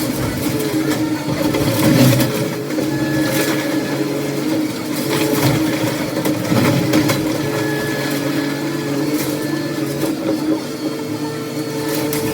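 Heavy demolition machinery's engine running steadily, with scattered knocks and clatter of debris.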